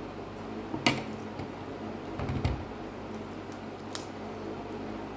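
Eating sounds: a few sharp clicks of cutlery against a plate, about a second in and again near four seconds, and a short muffled low sound around two and a half seconds, over a steady low hum.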